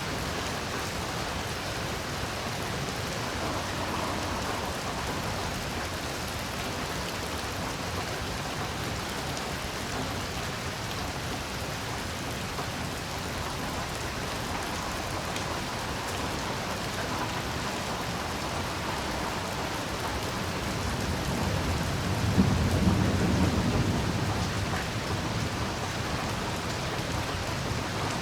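Heavy rain falling steadily, with a low roll of thunder that swells about twenty-one seconds in, is loudest a second or two later and fades out over a few seconds.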